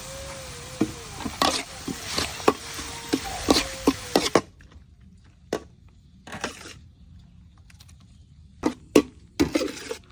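Kitchen utensils knocking and clattering against cookware, over a steady hiss that cuts off suddenly a little over four seconds in; a few more sharp knocks follow.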